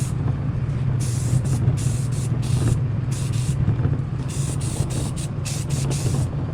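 Aerosol spray paint can hissing in a dozen or so short, quick bursts as parts are touched up, over a steady low hum.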